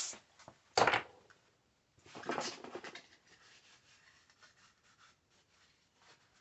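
A single sharp knock about a second in, then about a second of scratchy rubbing and fainter intermittent rubbing after it, as a rag wipes a plastic headlight reflector holder down with carburetor cleaner.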